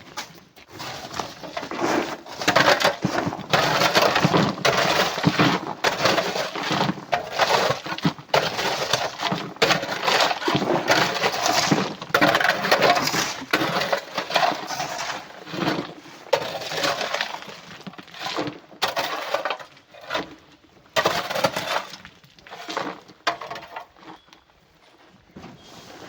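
Chunks of rock and coral clattering and crashing against one another in a dense, continuous rush of impacts, thinning to scattered knocks near the end.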